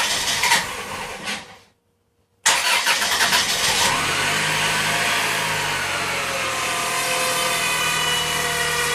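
2002 Dodge Stratus four-cylinder cranking, then catching about two and a half seconds in after a short break and settling to idle with a steady dry whir. The owner suspects a transmission fault: fluid not pressurizing or its flow restricted, from a stuck pressure switch, a bad filter or a hardened pickup O-ring.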